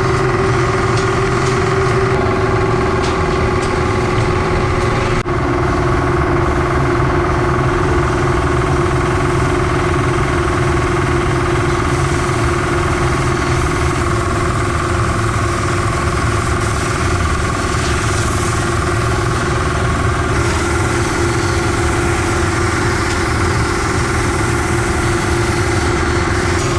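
Workshop machinery running steadily: a constant motor hum with fixed tones over a low rumble, briefly broken about five seconds in.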